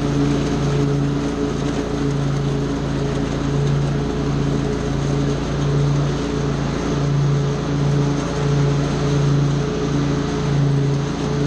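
Lawn mower engine running steadily at working speed, its hum swelling and fading in a slow beat about once a second.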